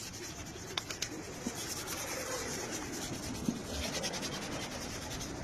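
Steady rubbing and scraping on a surface, with a couple of sharp clicks about a second in.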